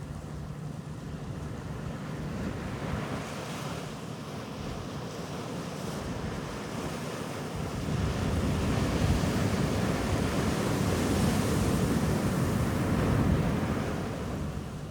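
Sea waves breaking and washing up a beach, one wave swelling louder about halfway through and fading near the end, with some wind on the microphone.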